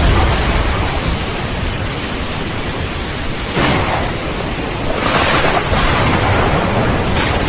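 Steady hiss of heavy rain with a low rumble of thunder, deepest right at the start. The rain swells louder about halfway through and again a little later.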